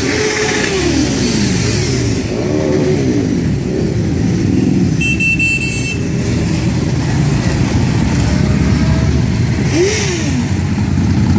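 Motorcycle engines running and passing by, with engine notes rising and falling as each one goes past over a steady rumble. A brief high-pitched beep sounds about five seconds in.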